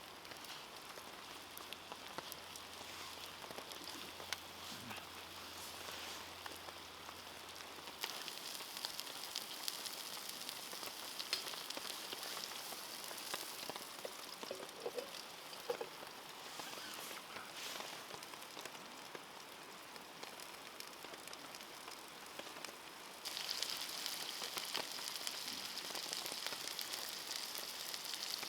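Food sizzling and crackling in a frying pan alongside steady rain pattering, the sizzle growing noticeably louder near the end.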